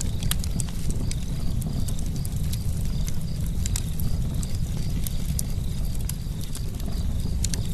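Campfire crackling: irregular sharp pops and snaps over a steady low rumble of burning wood. A faint high chirp repeats about twice a second underneath.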